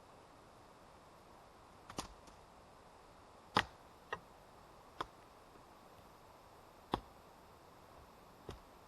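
Six sharp knocks at uneven intervals over a faint steady hiss, the second one the loudest.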